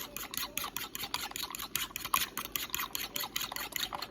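Eggs being beaten by hand with a utensil in a bowl: a quick, even run of scraping strokes, about seven a second.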